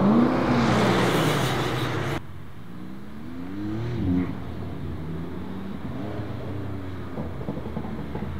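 Ram pickup truck accelerating away with its engine revving up. After a cut about two seconds in, a Porsche 911's flat-six is heard more quietly, rising in pitch as it accelerates through the gears.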